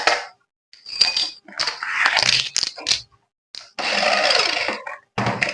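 Handling of packaging and toy parts: irregular bursts of rustling and crinkling with sharp clicks and clatters, the longest burst lasting about a second.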